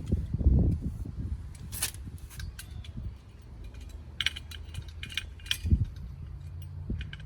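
Small metal parts and tools clinking against each other: a light clink about two seconds in and a quick cluster of clinks between four and six seconds in, over low handling rumble.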